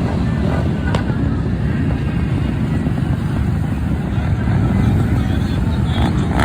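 A large group of motorcycle engines running together, a steady low-pitched mass of engine noise, with a short sharp click about a second in.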